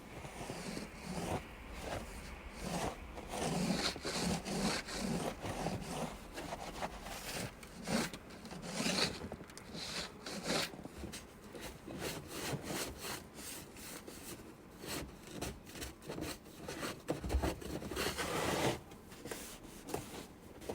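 Hands rubbing and scraping snow across a car's body in many quick, irregular strokes, with clothing rustling along with them.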